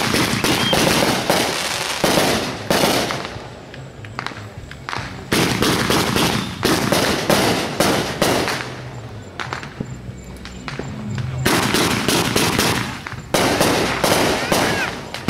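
Fireworks going off in several dense barrages of rapid crackling bangs, each a few seconds long with short lulls between.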